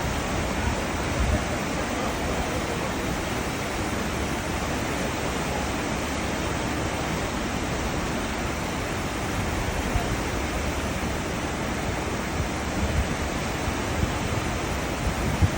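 Cruise ship's wake rushing and churning: a steady, even hiss of broken water, with a few brief low thumps.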